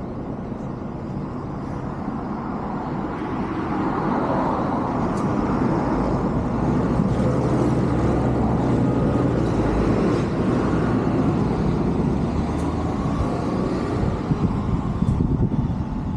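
A motor vehicle driving past on the street, its engine hum and tyre noise building a few seconds in, loudest through the middle, then easing off near the end.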